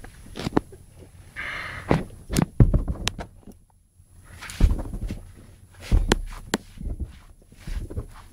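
A defensive pet rabbit lunging and scuffling: a string of sharp knocks and thumps, with a short breathy noise about one and a half seconds in.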